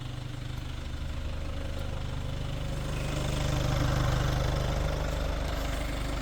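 2023 LDV Deliver 9's 2.0-litre turbo-diesel engine running at idle with a steady diesel clatter. It grows louder about three seconds in, then eases back a little.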